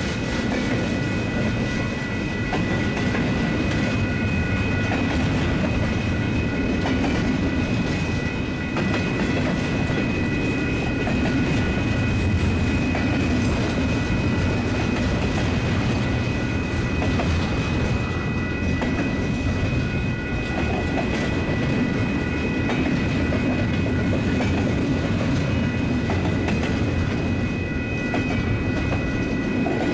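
Double-stack intermodal freight cars of a Union Pacific train rolling past: a steady rumble of steel wheels on rail with a clickety-clack of wheels over the rail joints, and a thin steady high ringing running over it.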